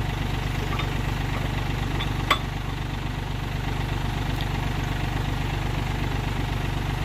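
An engine idling steadily with an even low pulse, and one sharp click about two seconds in.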